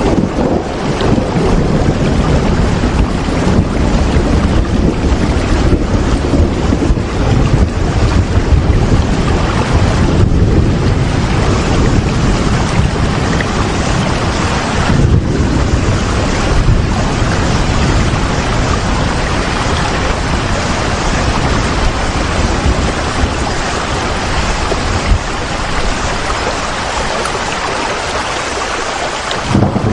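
Steady heavy rain: a dense, even hiss of rainfall with a strong low rumble underneath, which thins out for a few seconds near the end.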